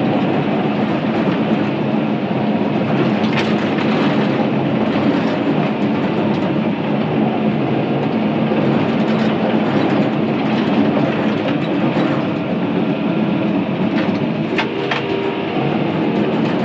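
Crawler bulldozer running and moving on its steel tracks, a steady engine-and-track clatter with a few sharper clanks.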